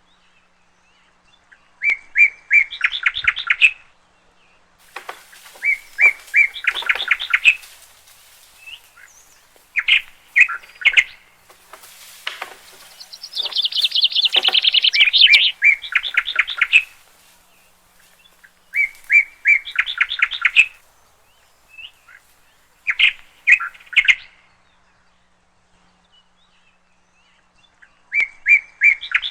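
A songbird singing the same short song over and over, about every four seconds: a few clear opening notes run into a fast, buzzy trill, one phrase in the middle longer and higher than the rest.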